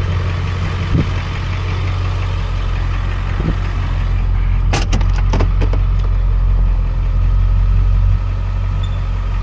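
Truck engine running, a low steady drone, with a few sharp clicks about five seconds in.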